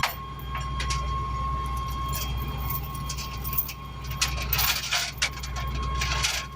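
Big container-hauling truck's engine running steadily during loading, with a steady high whine over it. A few short hissy bursts come about four and a half and six seconds in.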